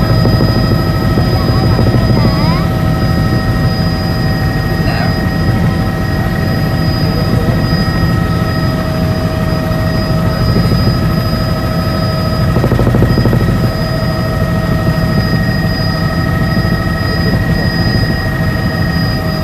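Helicopter engine and rotor noise: a loud, steady low drone with several steady high-pitched whines over it.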